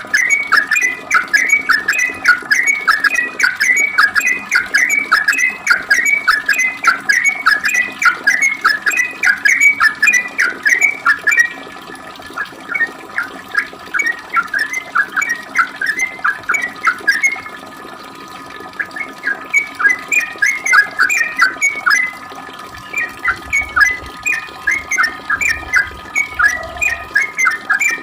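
Yellow-vented bulbul singing a long, rapid run of short whistled notes, about three to four a second, with a few brief pauses.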